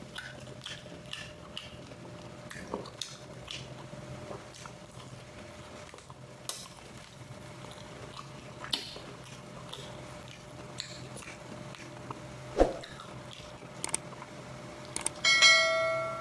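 A person eating: chewing and biting, with scattered light clicks of utensils against dishes. There is a dull knock about twelve seconds in, and near the end a short ringing clink, like a dish or glass being struck.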